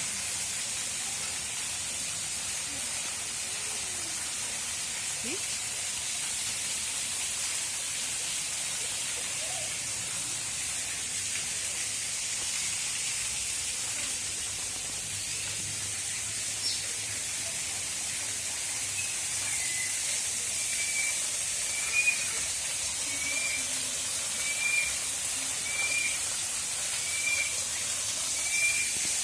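A steady high hiss runs throughout. About two-thirds of the way in, a bird starts calling: a short note repeated about every second, eight or nine times.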